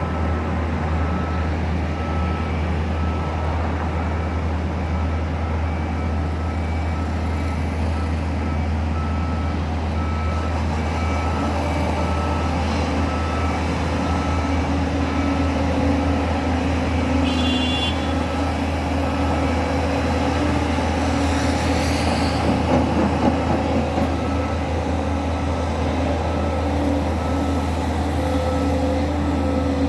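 Heavy construction machinery running with a steady low engine hum while a reversing alarm beeps at an even rate. A brief high squeal comes about halfway through.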